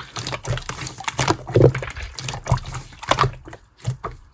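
Clear slime being squished and stretched by hand, giving a quick run of wet, sticky clicks and pops, with a short lull near the end.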